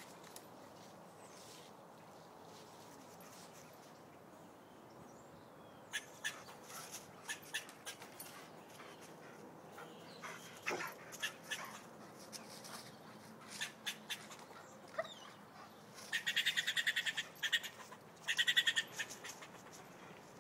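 German Shepherd whimpering, in two short runs of rapid, pulsing calls near the end, after a spell of scattered clicks and taps.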